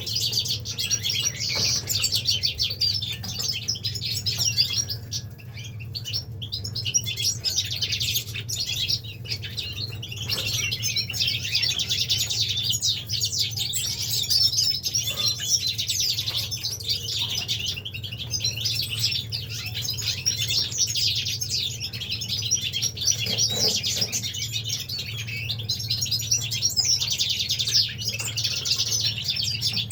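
A flock of caged finches and other small songbirds singing and chirping at once: a dense, unbroken chorus of rapid high twittering over a steady low hum.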